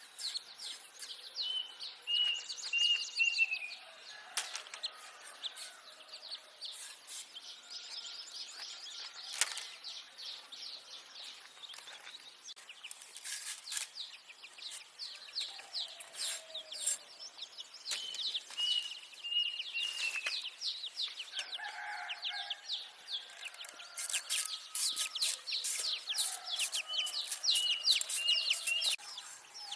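A bird calling a short run of four clear notes, the last falling slightly, three times, over a steady patter of small scrapes and rustles.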